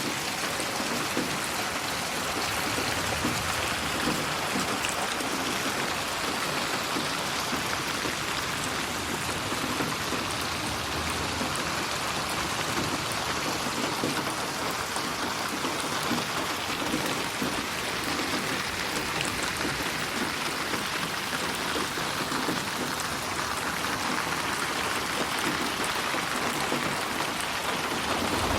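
Steady rain falling, a dense even hiss of drops, mixed as 8D audio that pans around the listener's head.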